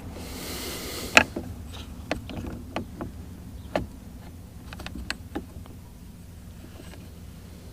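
Parts of a disassembled Mercury outboard remote control being handled: about a second of rustling, then a string of small sharp clicks and knocks as plastic and metal pieces are worked and repositioned, fading out after about five seconds.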